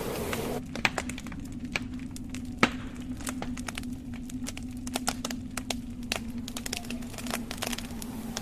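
Wood fire crackling in a fireplace: scattered sharp pops and snaps from burning logs over a steady low hum, one louder snap about two and a half seconds in. A rushing noise cuts off abruptly just after the start.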